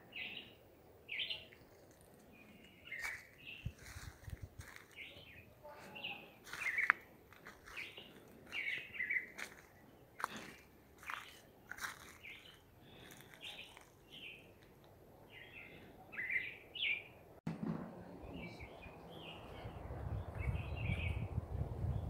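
Wild birds chirping and calling: many short, quickly repeated chirps and whistled notes, with sharp clicks among them. Near the end a low rumbling noise comes up under the calls.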